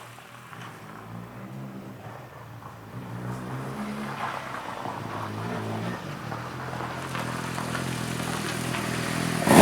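Suzuki GSX-R motorcycle's inline-four engine running at low revs, growing steadily louder over several seconds, with a brief loud burst right at the end.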